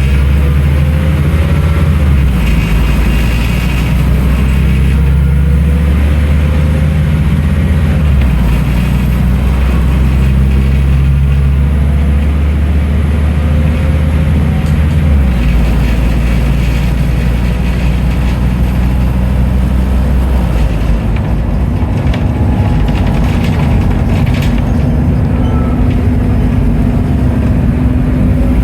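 Scania N310UA articulated city bus's diesel engine running under way, its low drone stepping to a new note a few times as the ZF Ecomat automatic gearbox changes gear, with a faint rising whine between changes. Near the end the drone drops back and a steadier mid hum takes over, as when the bus eases off.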